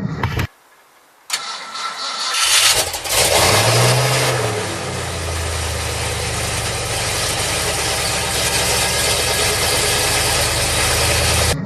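Cold start of a 1987 Ford F250's carbureted 460 big-block V8. The engine cranks briefly and catches about two and a half seconds in, flares up in revs, then settles into a steady idle.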